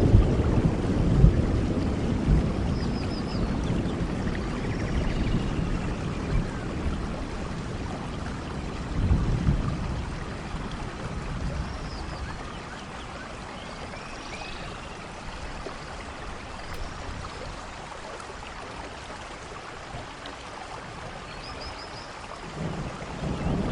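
Steady rainfall with rolling thunder: a rumble dies away over the first ten seconds or so, swelling once more about nine seconds in, and a new rumble builds near the end. A few faint high chirps sound over the rain.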